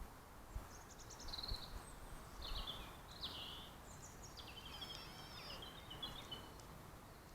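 A songbird singing a run of short, high, varied warbling phrases, with a few soft low thumps in the first couple of seconds.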